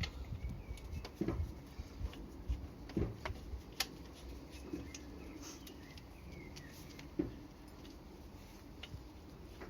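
Occasional light clicks and knocks of tools and metal parts being handled, with quiet shuffling in between.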